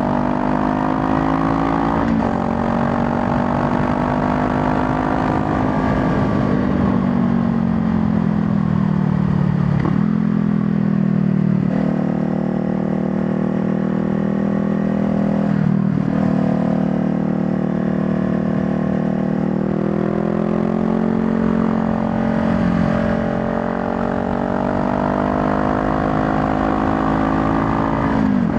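Honda Rebel 500's parallel-twin engine under way, its pitch climbing and falling with throttle and jumping abruptly a few times as gears change. It eases off for several seconds midway and climbs again toward the end, with wind and road noise underneath.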